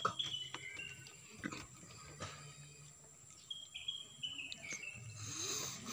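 A bird calling in the background: a run of short whistled notes stepping down in pitch, heard twice, over faint outdoor noise.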